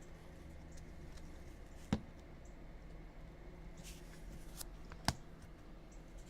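Quiet handling of trading cards, with faint rustling and two sharp clicks about three seconds apart, over a low steady hum.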